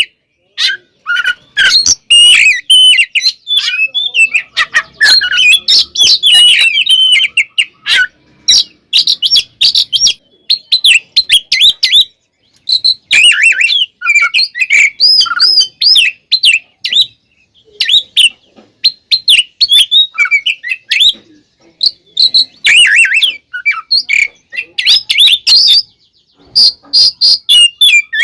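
Oriental magpie-robin (kacer) singing loudly in an agitated, fighting mood: fast, varied whistles, chirps and harsh notes in rapid bursts with brief pauses between phrases.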